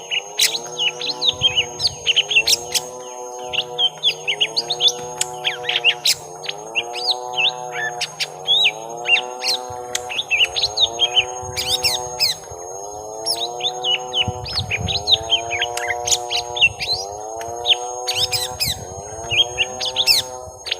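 Young lesser green leafbirds (cucak ijo mini) in a fighting duel: rapid, scratchy chirps and twittering phrases. Under them a lower arching call repeats about every one and a half seconds, and a thin steady high whine sits above.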